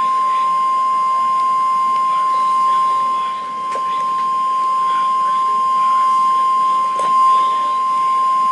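NOAA Weather Radio warning alarm tone from a Midland weather radio: one long, steady, high alarm tone that cuts off sharply at the end. It signals that a warning broadcast is about to follow.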